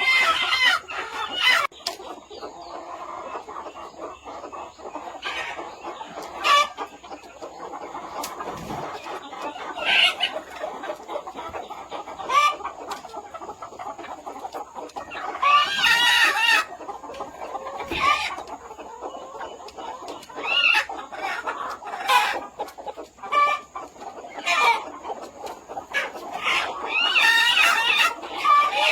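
A flock of chickens clucking and murmuring without pause, with short calls throughout. Louder, drawn-out calls come about halfway through and again near the end.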